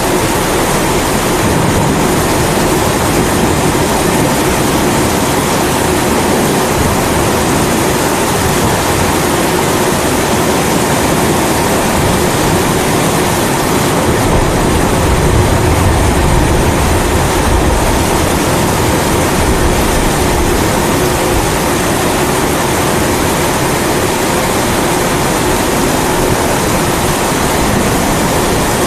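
Kerosene pressure stove (primus burner) burning with a steady roar, mixed with rain. A low rumble of thunder swells about halfway through.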